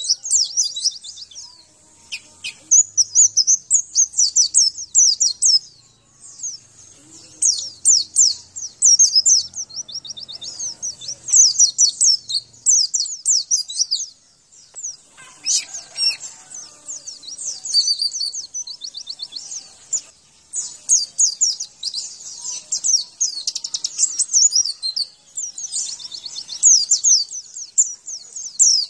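White-eye (pleci) singing: phrases of rapid, high twittering chirps, each a few seconds long, with short pauses between them.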